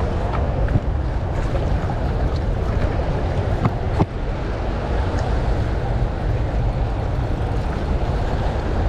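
Steady rushing of water released through the dam's flood gates, with wind buffeting the microphone and a few faint clicks.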